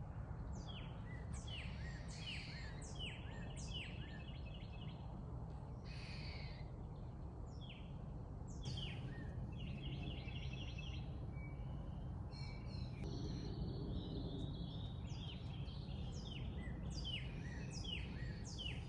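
Several small birds chirping and calling throughout: short downward-sweeping chirps and rapid trills, over a steady low rumble of background noise.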